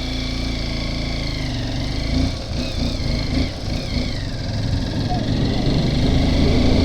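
Honda XR dirt bike's single-cylinder engine running as it is ridden, its note dipping and wavering about two seconds in, then picking up and growing louder toward the end.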